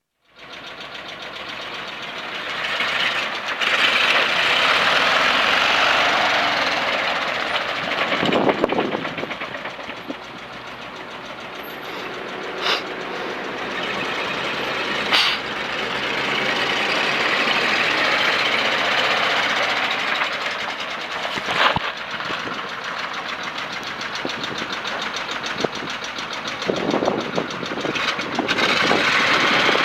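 1968 Chevrolet C50 grain truck's engine running, revved up and down several times between stretches of slower running, with a few sharp clicks along the way.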